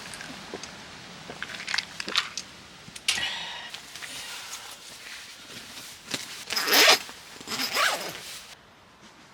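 Handling noises: a series of quick scraping, rustling strokes, the loudest two about seven and eight seconds in. The background hiss cuts off suddenly near the end.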